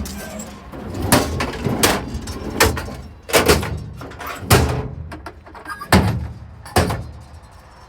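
Drawers of a truck's service utility body being slid shut one after another, a series of about seven sharp metal clunks roughly a second apart.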